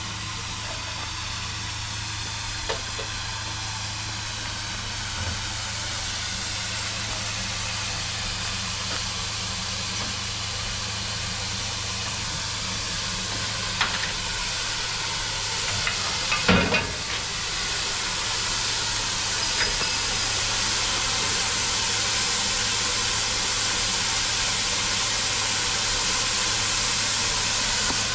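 Steam hissing steadily from a steam locomotive, growing louder about two-thirds of the way through, with a few short knocks around the middle.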